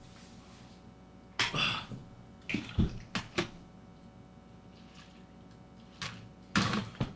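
A few short bouts of pouring and clattering into a bowl, each a second or less, the longest about a second and a half in.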